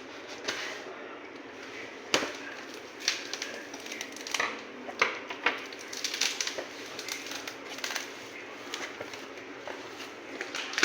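Packaging and product being handled: irregular crinkles, clicks and light knocks, the sharpest click about two seconds in.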